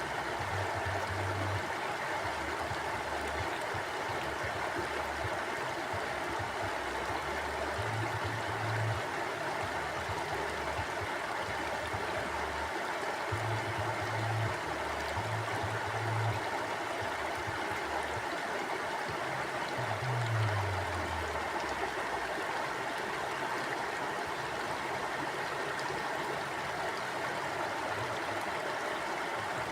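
Mountain stream flowing over rocks: a steady, even rush of water. Low rumbles come and go underneath several times, one of them dropping in pitch about two-thirds of the way through.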